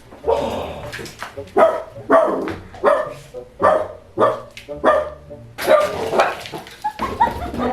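A dog barking over and over, about ten loud barks at a fairly even pace.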